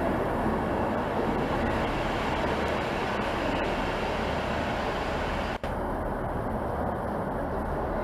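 A train running through a station, a steady rumble of engine and wheel noise. About five and a half seconds in there is a sudden brief dropout, after which the sound is duller.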